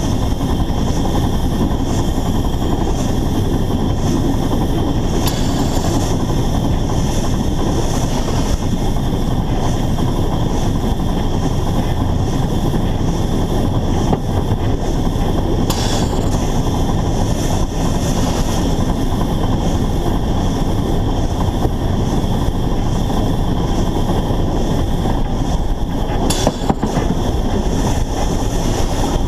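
Narrow-gauge steam locomotive running along the line, heard from a camera mounted on the engine: a loud, steady rumble of wheels and running gear, with a few sharp clicks.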